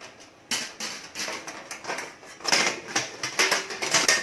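Aluminium cake moulds being handled: a quick run of light metallic clicks and clatters, thicker in the second half.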